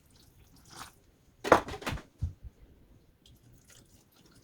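Water being added to refractory rigidizer powder: a few short splashing, squishing sounds, loudest about one and a half to two seconds in.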